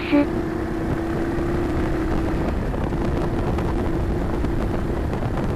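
Honda Cross Cub's single-cylinder four-stroke engine running at a steady cruise under way, with wind and road noise, as picked up by a dashcam microphone mounted on the handlebar remote; quite noisy.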